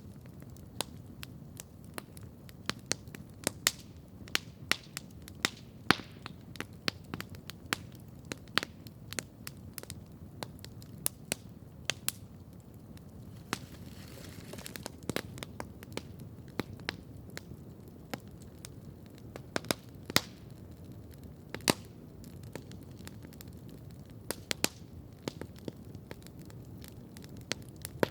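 Wood campfire crackling steadily, with many irregular sharp pops and snaps, a few of them loud, over a low steady rumble of the burning fire. A soft hiss rises briefly about halfway through.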